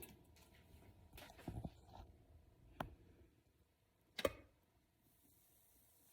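A few faint clicks and knocks over near silence, the loudest about four seconds in.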